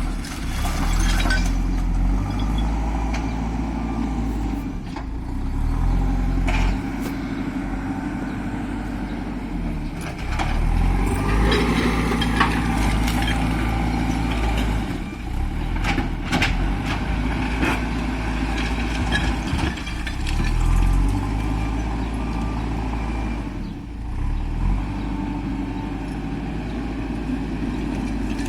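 Heavy diesel engine of construction machinery running, its speed rising and falling repeatedly, with occasional sharp clanks and knocks.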